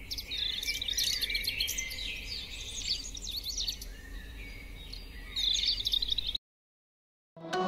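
Birds chirping, many short overlapping calls over a low steady background hum. The sound cuts off abruptly about six seconds in, and music starts near the end.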